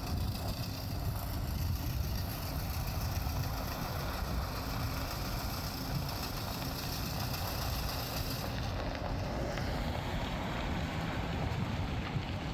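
Plow truck running, a steady low engine and road rumble with a hiss over it; the high hiss drops away about two-thirds of the way through.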